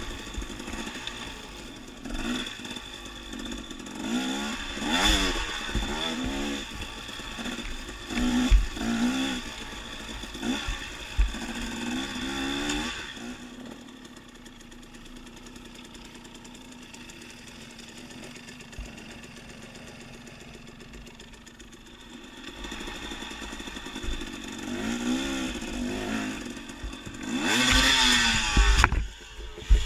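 Dirt bike engine revving up and falling back again and again while riding a trail, with occasional low thumps. It settles to a quieter, steady note partway through, then revs up again near the end.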